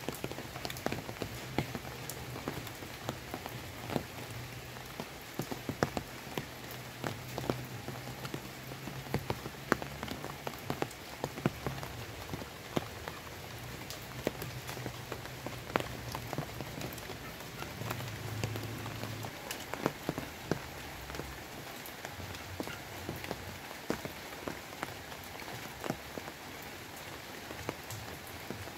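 Rain falling steadily: an even hiss with frequent sharp ticks of drops landing on wet leaves close by.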